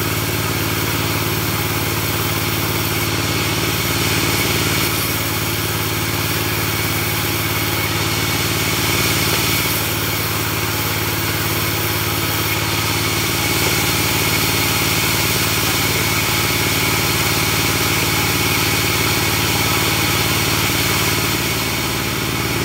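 Portable bandsaw sawmill running steadily while sawing a log, a continuous mechanical noise with only slight rises and falls in level.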